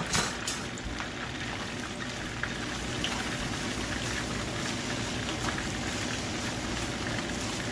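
Fried rice sizzling steadily in a hot frying pan, crisping up, with a couple of light knocks just after the start.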